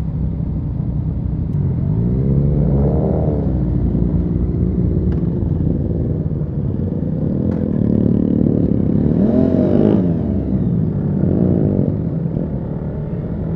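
Motorcycle engines running with a steady low rumble. Three times, around three seconds in, near nine to ten seconds and around eleven and a half seconds, the engine note swells up in pitch and falls away again.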